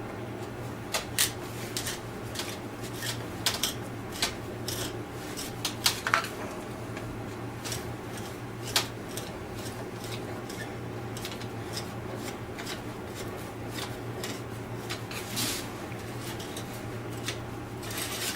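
Scattered metallic clicks, taps and clinks of hand tools and loose parts while a tractor starter motor is being taken apart, irregular and with a few louder knocks. A steady low hum runs underneath.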